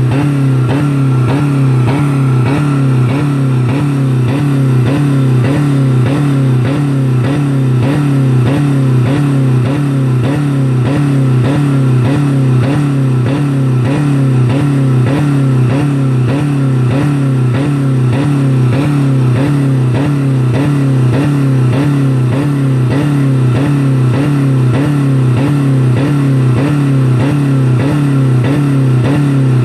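A 2000 Dodge Neon's four-cylinder engine is held flat out against its rev limiter at about 4000 rpm, pulsing a few times a second as the limiter cuts in. The engine has no oil or coolant left.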